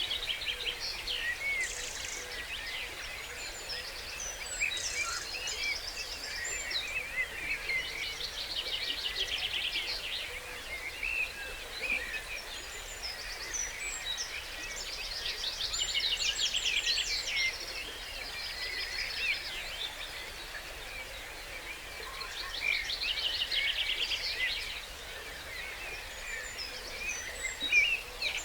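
Dawn chorus: many songbirds singing at once, with overlapping whistles and chirps and, every several seconds, a loud rapid trilled song phrase, over a steady soft hiss of background noise.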